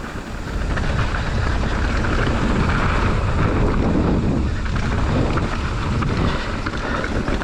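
Wind buffeting the camera microphone while a mountain bike descends a trail, with tyres rumbling and rattling over the ground.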